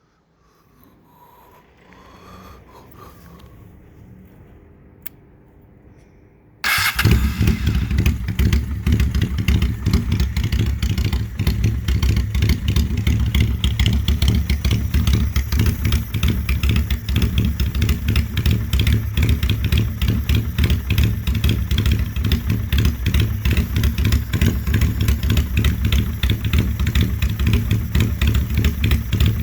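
Honda Steed chopper's 600 cc V-twin engine firing up about seven seconds in after a few quiet seconds and a small click, then running at a loud, steady, lumpy idle with a fast, even pulse.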